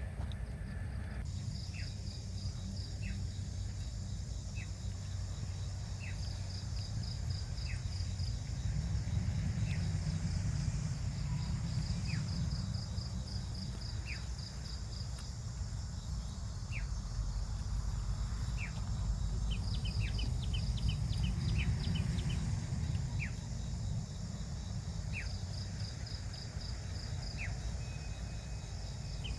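Forest night ambience: insects trilling in repeated pulsed bursts, and a bird giving short falling calls about every second and a half, over a steady low rumble.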